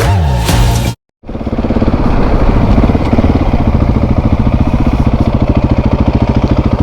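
Background music cuts off about a second in. After a brief gap, an adventure motorcycle's engine runs steadily with an even pulse and no revving up or down.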